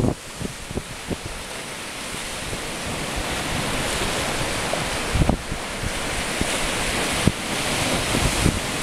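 Waves of a rough, stormy sea breaking and washing, the surf noise swelling louder over the first half, with gusts of wind buffeting the microphone in low thumps.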